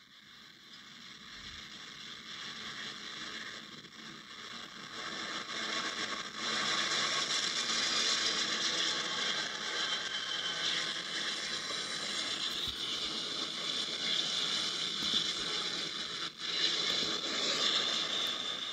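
Freight cars of a passing freight train clattering and rattling on the rails, growing louder over the first six seconds or so and then steady. It is heard played back through a laptop's small speaker, thin and without much low rumble.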